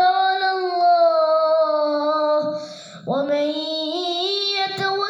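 A young boy reciting the Quran in melodic tajweed style, holding a long drawn-out note. About two and a half seconds in he pauses for a breath, then comes back on a rising note and carries the phrase on.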